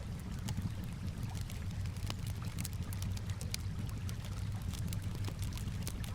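Campfire crackling with scattered sharp pops, over a steady low wash of calm water.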